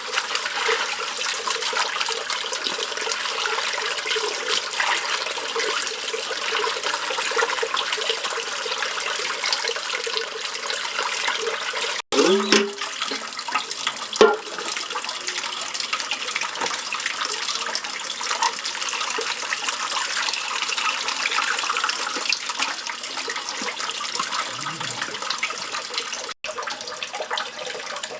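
Steady running, splashing water. It breaks off sharply twice, about twelve seconds in and near the end. A short pitched sound comes just after the first break.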